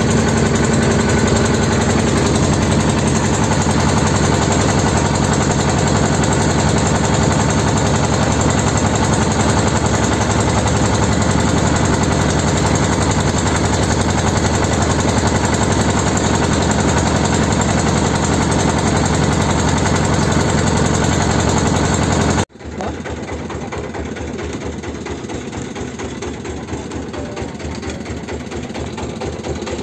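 A motor engine running steadily and loudly. About three-quarters of the way through it cuts off abruptly, giving way to a quieter low drone.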